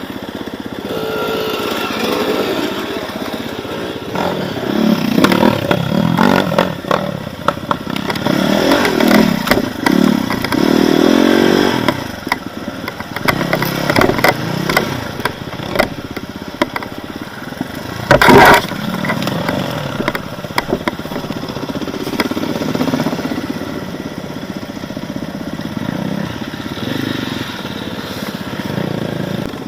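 Off-road motorcycle engine revving in uneven bursts as it climbs and falls in pitch, with clattering and knocking from the bike over rough ground. One loud knock comes a little past the middle.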